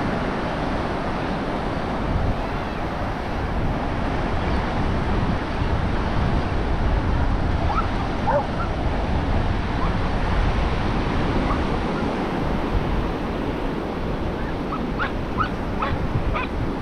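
Surf washing onto the beach, a steady rushing noise, with wind rumbling on the microphone. A few faint short sounds come through the noise about halfway and near the end.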